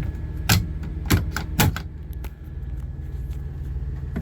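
Four sharp clicks and knocks in the first two seconds from storage compartment doors in a Kenworth T680 cab being worked open and shut, over the steady low hum of the truck's auxiliary power unit (APU) running.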